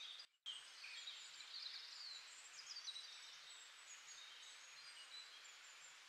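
Faint birdsong: many short, high chirps and warbles over a steady hiss, starting about half a second in after a brief cut-out.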